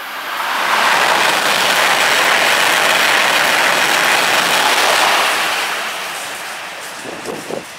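Electric passenger train passing close through the station at speed without stopping: a steady rush of wheel and air noise that builds in the first second, holds for about four seconds, then fades as the train goes away.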